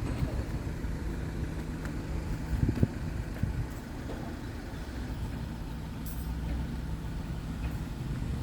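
Scania R tractor unit's diesel engine idling steadily, with a brief knock about three seconds in.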